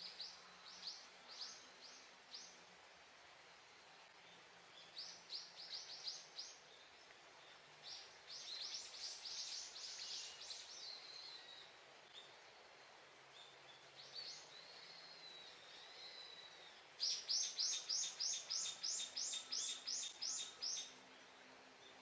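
Small birds calling: several bursts of quick, high chirps, some with short curving notes, then near the end a louder run of about a dozen evenly spaced chirps, some three or four a second.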